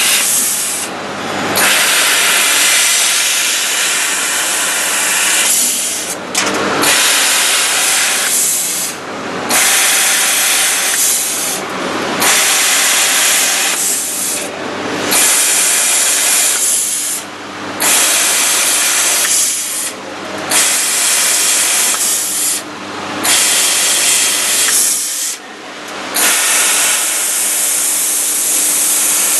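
CNC laser cutter's assist-gas jet hissing loudly as it cuts sheet metal, dropping out briefly about every three seconds between cuts.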